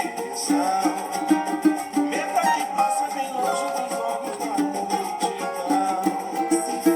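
Cavaquinho played in a quick, even strumming rhythm, chords and melody notes together.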